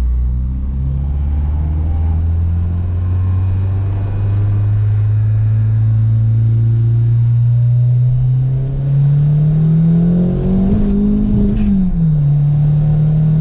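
Turbocharged Honda B20 inline-four in a CR-V accelerating. Its note climbs slowly through one long pull, then drops sharply at a gear change near the end and holds.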